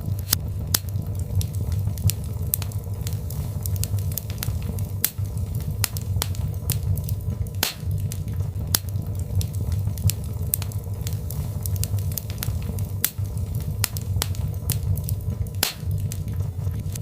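Birchwood fire crackling in a fireplace: irregular sharp pops and snaps over a steady low rumble.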